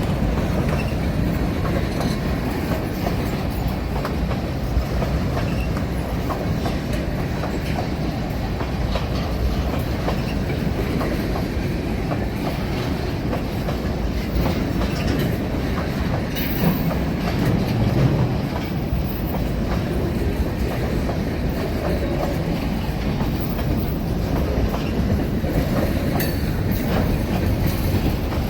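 A train rolling by with a steady low rumble and scattered wheel clicks.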